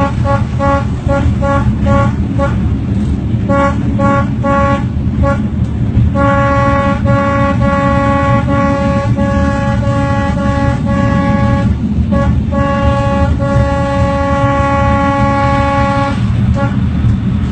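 Train horn blown as a warning: a rapid series of short toots, about two or three a second, then long held blasts with brief breaks, over the steady low rumble of the moving train.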